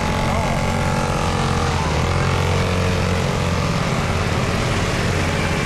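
A vehicle engine running steadily at a constant pace, a low, even drone.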